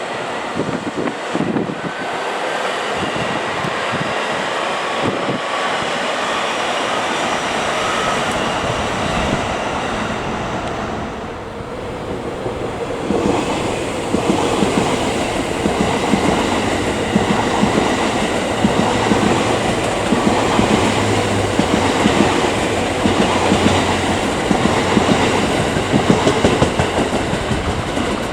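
Passing train: steady running noise with wheels clattering over rail joints and points, the clatter dense and regular through the second half.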